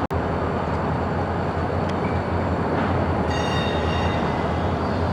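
Freight train moving slowly through a rail yard during switching: a steady low rumble of locomotive and rolling cars, with a short thin metallic wheel squeal about three and a half seconds in.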